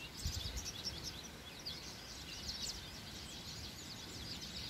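Songbirds chirping and singing in a busy chorus of quick, high notes, with a brief low rumble about half a second in.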